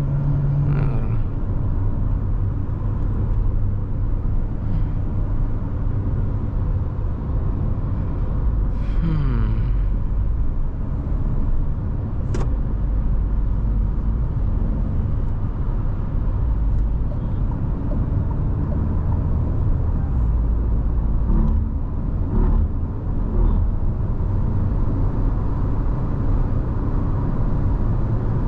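Cabin noise of a Nissan Tekton driving at road speed: a steady low rumble of the 1.3-litre turbo petrol engine with tyre and road noise. There are a few short clicks, the sharpest about twelve seconds in.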